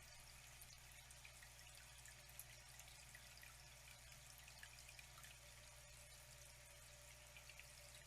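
Faint, steady running water, with many small drips and splashes scattered through it.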